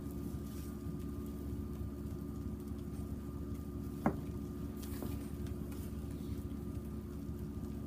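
Wood fire burning in a small fire box over a steady hum, with one sharp crackle about four seconds in and a fainter one soon after.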